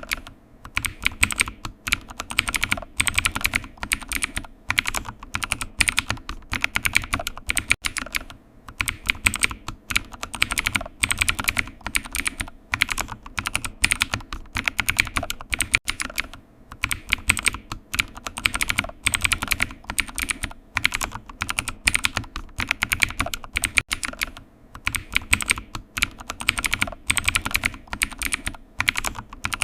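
Computer keyboard typing: quick, irregular runs of key clicks broken by short pauses.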